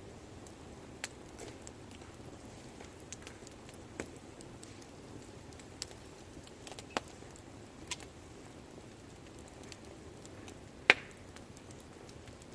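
Wood campfire crackling: irregular sharp pops and snaps over a low, steady rush of flame, with one loud pop near the end.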